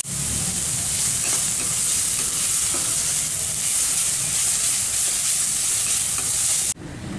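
Grated carrot and onions frying and sizzling in hot oil in a kadai while a metal spatula stirs and scrapes them around the pan. The sizzle cuts off suddenly near the end.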